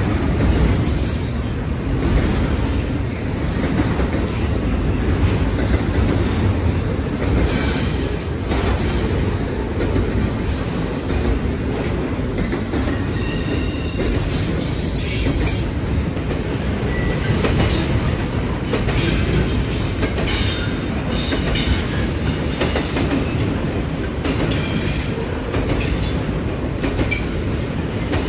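Train rolling steadily past with a continuous low rumble of wheels on rail, and short high-pitched wheel squeals coming and going.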